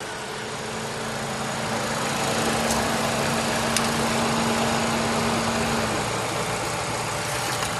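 Opel Corsa's 1.2-litre Z12XEP four-cylinder petrol engine idling steadily, running in the car before removal for sale. A steady low hum under it stops about six seconds in, and there is a single sharp click midway.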